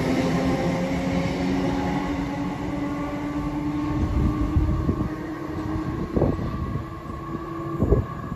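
Electric multiple-unit passenger train running past and pulling away, its steady motor whine fading over the first few seconds above a low rumble of wheels on rail. A few sharp knocks follow in the second half, the loudest near the end.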